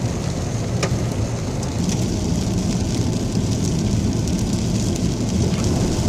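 Steady noise inside a moving car driving in the rain: a low tyre-and-road rumble under the hiss of the wet road and rain, with one faint tick about a second in.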